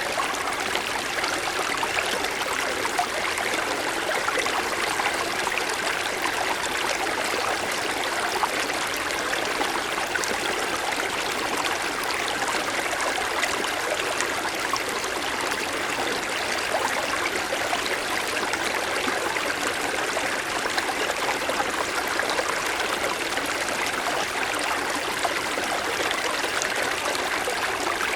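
Small mountain stream flowing steadily over stones, an even, unbroken rush of running water.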